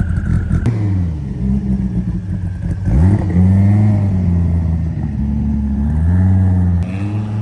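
Car engine revving: its pitch climbs sharply about three seconds in, holds high, dips, then rises once more before dropping back near the end.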